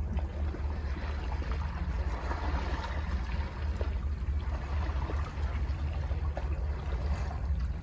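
Sea surf washing against the rocks under the cliffs, a wash that swells about two seconds in and then eases, over a deep steady rumble.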